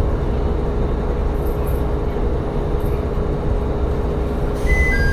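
Tsugaru Railway diesel railcar running along the line, heard from inside the car as a steady low rumble with a constant hum. Near the end, clear high ringing tones at two pitches begin.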